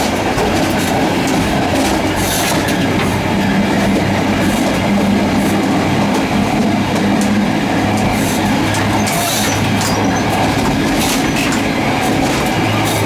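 Zentralbahn train running, heard from inside the open gangway between two cars: a loud, steady rumble of wheels on rail with a low hum and frequent short sharp clicks and rattles.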